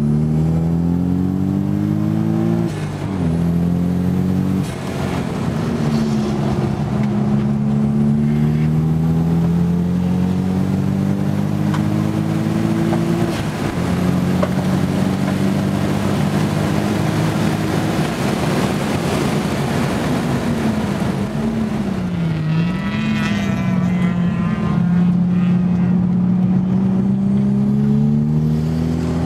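Toyota Supra with basic performance upgrades driven hard on track, heard from inside the cabin: the engine note climbs through the revs and drops briefly at each upshift, several times over. About two-thirds of the way through it falls and rises unevenly as the car slows and downshifts for a corner, then pulls up through the revs again.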